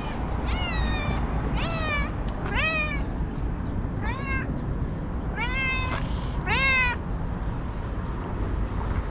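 A cat meowing over and over: about six drawn-out meows, roughly one a second, most of them falling in pitch, over a steady low background rumble.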